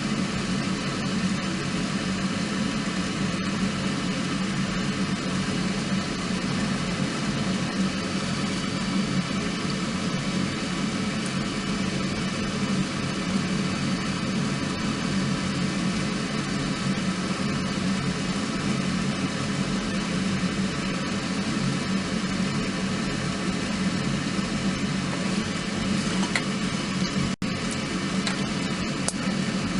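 Wood fire burning in a small compact fire stand: a steady low rumble, with a few faint crackles near the end.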